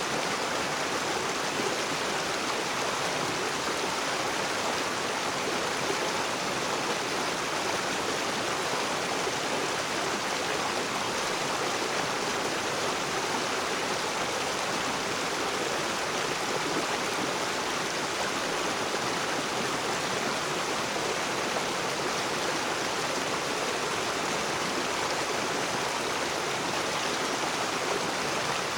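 Rocky river running over stones: a steady, even rush of flowing water with no other events.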